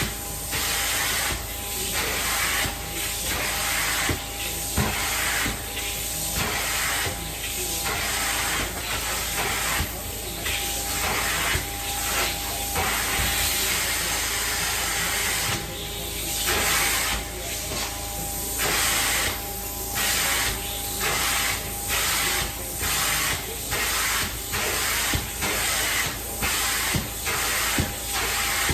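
Hot-water extraction carpet-cleaning wand spraying and sucking: a steady hiss broken by short dips about once a second as the wand is worked in strokes, with a steady whine underneath from the extraction machine.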